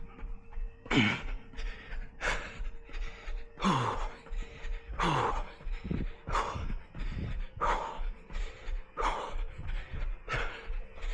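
A runner's heavy breathing mid-run: a hard breath out about every second and a half, some voiced with a falling pitch, over the quick, even thud of footfalls.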